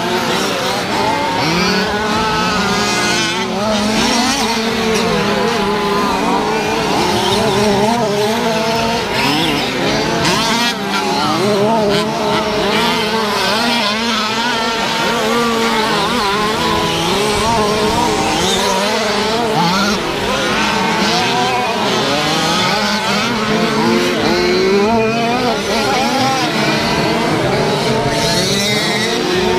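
A pack of 1/5-scale gas RC trucks racing, their small two-stroke petrol engines buzzing together and constantly revving up and down as the throttles open and close.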